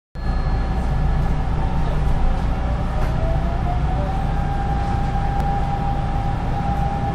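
Hanshin 5500 series commuter train heard from inside the car as it accelerates away: a steady low rumble of wheels and running gear, with a motor whine rising in pitch and then levelling off.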